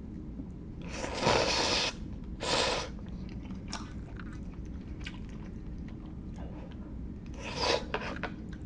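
Close-miked eating sounds: chewing with small clicks, broken by two loud noisy bursts about a second in and another shortly before the end.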